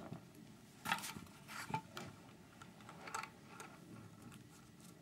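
Light clicks and rustles of small parts being handled: a cluster about a second in, more near two seconds, and another about three seconds in.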